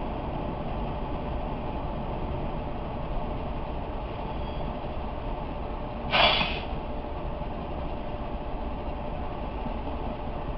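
Steady low rumble of a freight train, heard from inside a car through a dashcam, with one short, loud hiss about six seconds in.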